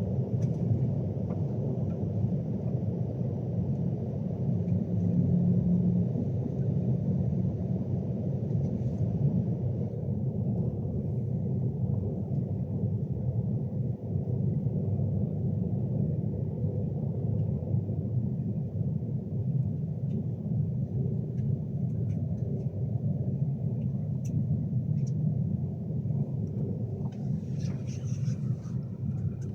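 Steady low rumble of a Class 390 Pendolino electric train running along the line, heard from inside the passenger saloon. A short patter of higher clicks comes near the end.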